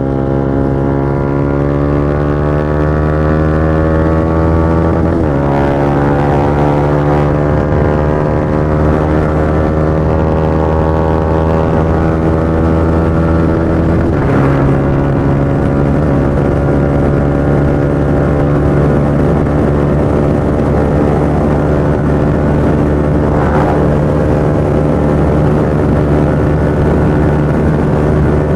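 Motorcycle engine under acceleration: it rises in pitch, drops sharply with an upshift about five seconds in and again about halfway through, then holds a steady pitch at cruising speed.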